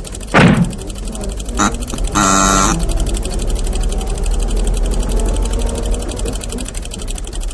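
Cartoon jalopy sound effect: a rattly old car engine chugging steadily, with a loud squeaky creak that falls in pitch about half a second in, a brief squeak soon after, and a horn honk of about half a second a little after two seconds in.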